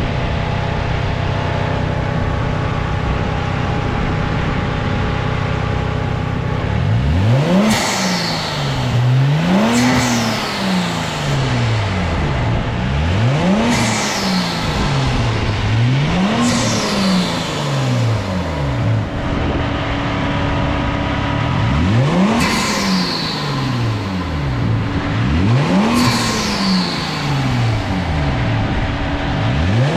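Genesis G70's turbocharged engine, fitted with an HPS short ram intake, idling steadily, then blipped over and over, with a fast rise and fall in revs every two to four seconds. After each blip a high whistle falls away as the turbo spools down.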